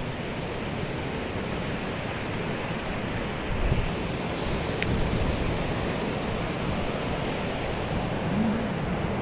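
Ocean surf washing onto the beach in a steady wash of noise, with some wind buffeting the microphone.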